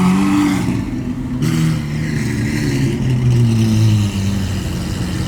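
A car engine accelerating hard, its pitch climbing, dropping about one and a half seconds in as it shifts gear, then climbing again.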